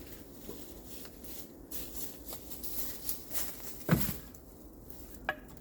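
Irregular knocking and rustling, with one sharp, loud thump about four seconds in and a smaller knock near the end.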